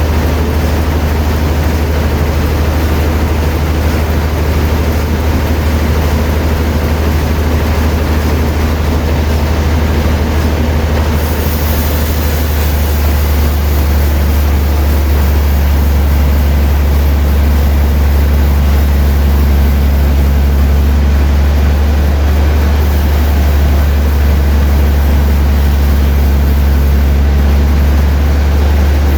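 Sawmill machinery running steadily: a loud, constant low engine drone with a dense noise over it.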